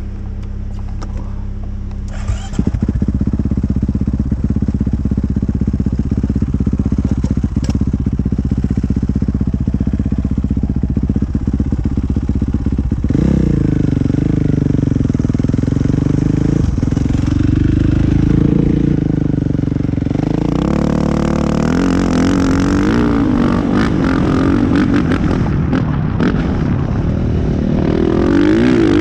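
Dirt bike engine idling, then pulling away about two and a half seconds in and riding on, its revs rising and falling repeatedly, running harder and busier in the last third.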